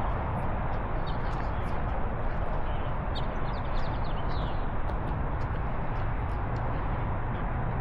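Steady outdoor rumble with light ticking clicks, and a bird chirping a quick run of notes about three to four seconds in.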